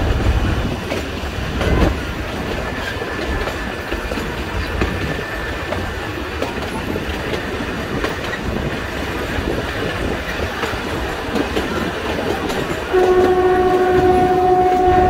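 Nilgiri Mountain Railway train running, heard from inside a carriage: a steady rumble with wheels clattering over the rail joints. About thirteen seconds in the locomotive gives one long, steady, loud blast.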